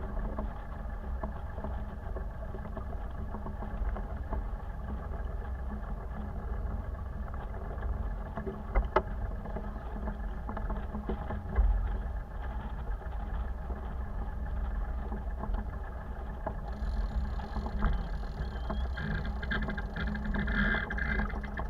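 Steady low rumble of a boat under way on the water, with a couple of sharp knocks around the middle.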